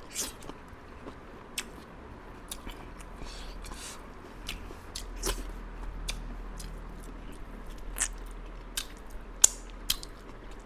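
Close-miked mouth sounds of someone eating chicken karchimarchi: chewing and biting, with scattered sharp lip smacks and clicks, the loudest a little over nine seconds in.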